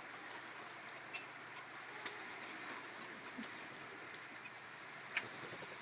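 Birds pecking at food on bare toes: scattered light taps and clicks, the sharpest about two seconds in and another near the end, over a faint steady hiss.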